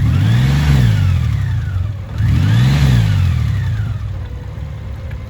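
2021 Honda Gold Wing Tour's 1800 cc flat-six engine revved twice, each rev rising and falling in pitch over about two seconds, then settling back to idle near the end.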